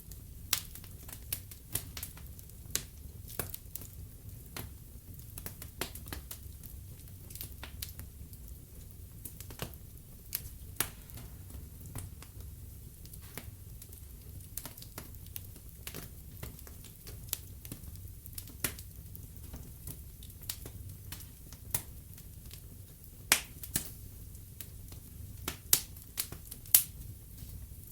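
Burning logs in a fireplace crackling: irregular sharp pops and snaps, a few of them louder, over a low steady rumble of the flames.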